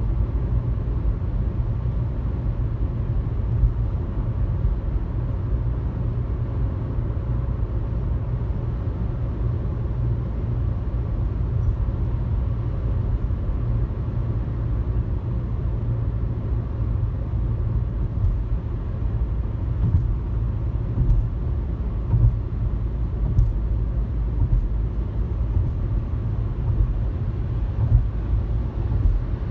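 A car driving on a highway: a steady low rumble of tyres and engine, with a few faint ticks and small bumps along the way.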